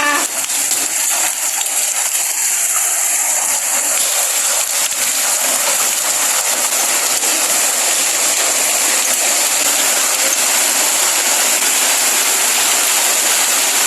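Hailstones and heavy rain falling: a dense, steady patter of countless small impacts.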